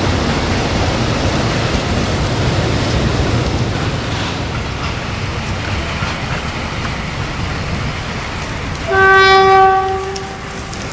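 Freight train wagons rolling past with a steady rumble on the rails. Near the end a locomotive horn sounds one steady note for about a second, the loudest sound.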